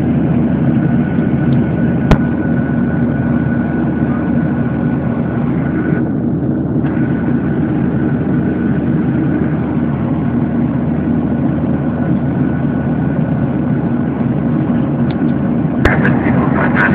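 Steady cabin noise of a Boeing 737-800 in flight: a constant drone of engines and airflow with a faint steady whine. A sharp click sounds once about two seconds in, and a few brief sounds come near the end.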